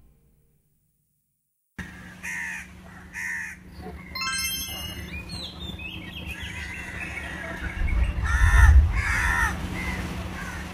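Birds calling outdoors: a few short, harsh calls spaced apart, growing louder near the end, over a steady low hum. The calls start about two seconds in, after a brief silence.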